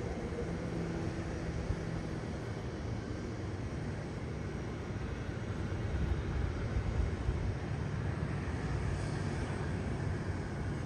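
Steady low rumble and whine of a Boeing 787-9 airliner on the ramp, growing a little louder about six seconds in.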